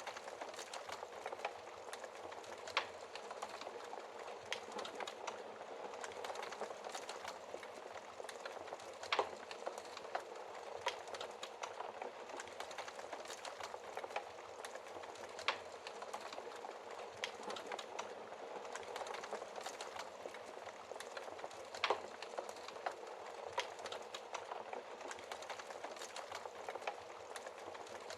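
Wood fire burning in a fireplace, crackling steadily, with louder single pops from the burning wood every few seconds.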